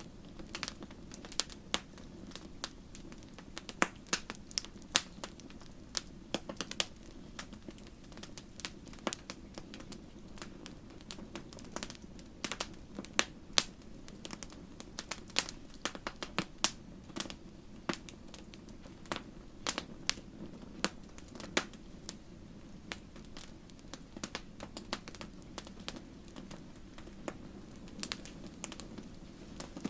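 Wood fire burning, with irregular sharp crackles and pops over a steady low rumble of flame.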